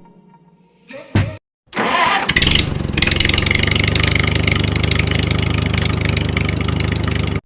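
A couple of clicks, then an engine starts and settles into a steady, rattling run, cutting off suddenly near the end.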